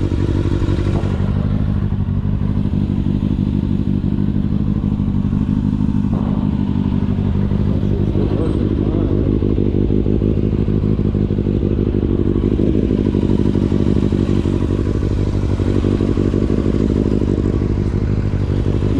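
2009 Kawasaki ZX-6R's inline-four engine running steadily, its pitch barely changing.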